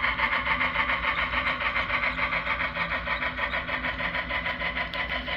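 Model steam locomotive (a C&O mallet) and its train running along the model railroad track, a steady fast rhythmic clatter with a steady whirr underneath.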